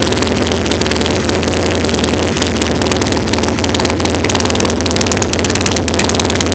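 BMW R100/7 air-cooled boxer twin running steadily at idle through short Emgo-style exhaust pipes, shortly after a cold start.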